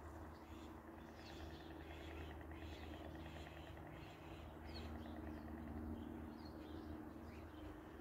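Small birds chirping in the background, many short high calls scattered throughout, over a steady low rumble.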